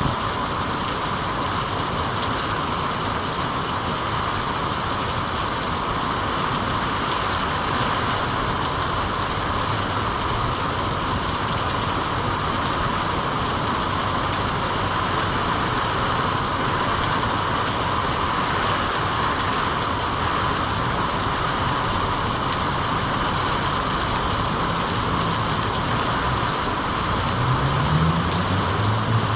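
Steady heavy rain falling, an even hiss with no break. Near the end a faint low hum rises in pitch.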